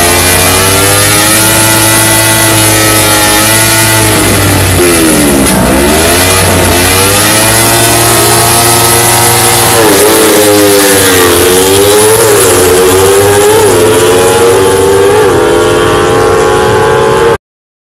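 250cc sportbike engines revving hard at the start line before launch, the engine note climbing and falling as the throttle is blipped, with a run of quick repeated blips in the second half. Loud and close, cutting off abruptly near the end.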